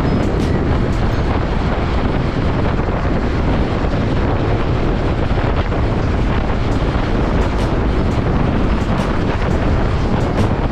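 Wind rushing over the microphone while riding a motorcycle, a steady loud buffeting with road and engine noise blended underneath.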